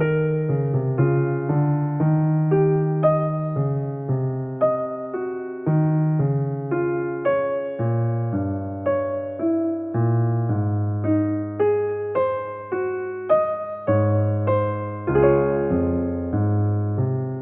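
Background piano music: a gentle, steady sequence of struck notes and chords.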